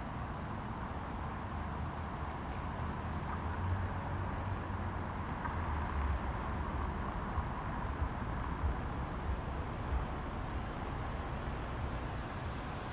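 Steady low rumble and hiss with a faint high hum: a train running at a railway station.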